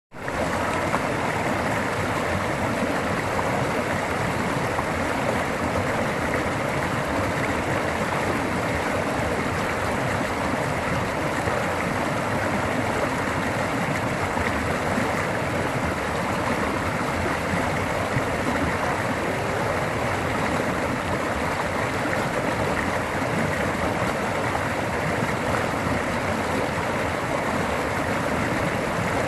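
Floodwater rushing in a swollen stream after a landslide: a loud, steady roar of turbulent water.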